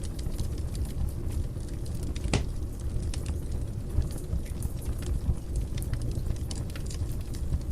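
Fire burning in a fireplace: a steady low rumble of flames with frequent small crackles and one louder pop a little over two seconds in.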